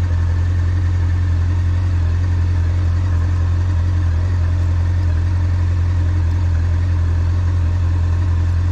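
Honda Nighthawk 750's air-cooled inline-four engine idling steadily, with an even low hum and no revving.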